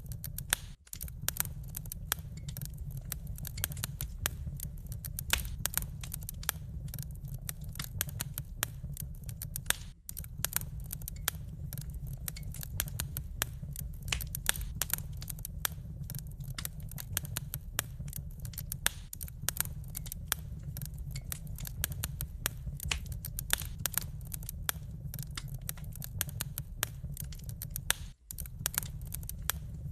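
Wood fire crackling: a dense, irregular run of sharp pops and snaps over a low steady rumble. The sound cuts out for an instant three times.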